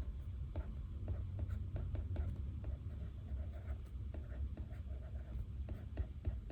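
Pen writing on paper: irregular quick scratches and small ticks of the nib, over a steady low room hum.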